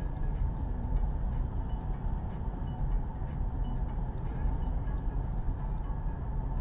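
Steady low rumble of a car's engine and road noise, picked up by a dashcam inside the car, with no impact heard.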